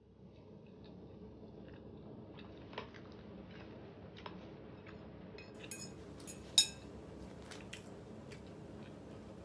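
Eating sounds: scattered clicks and taps of utensils and food containers along with chewing, one sharp click louder than the rest a little past the middle, over a steady low room hum.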